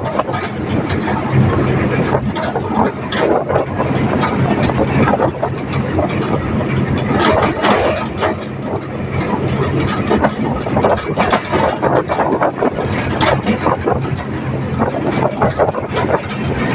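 Tractor engine running steadily under continuous loud rattling and clattering, heard from on board the moving tractor.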